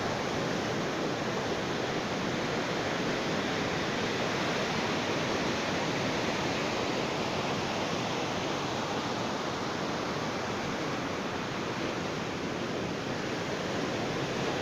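Ocean surf on a beach: a steady, even rush of waves with no single break standing out.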